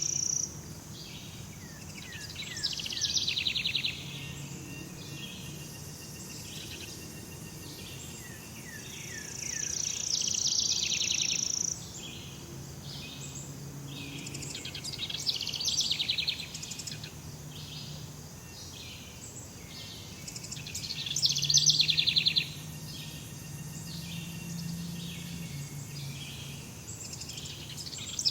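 Jungle ambience of many birds calling and insects chirping. Every six seconds or so a louder, fast-pulsing trill swells up for a second or two and then stops abruptly.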